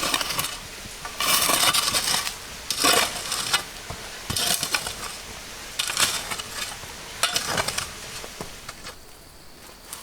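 Dishes and cutlery clattering and scraping in a run of short bursts that die away near the end.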